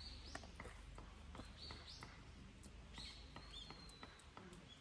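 Faint birdsong: several short rising chirps, and about three seconds in a thin high whistle held for about a second. Faint small taps of a knife on a cutting board lie underneath.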